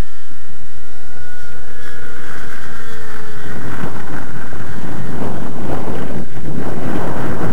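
Model plane's ASP .61 two-stroke glow engine running in flight, its whine steady at first and dropping slightly in pitch before fading after about three seconds. Gusty wind then buffets the microphone in loud rumbling surges, drowning the engine.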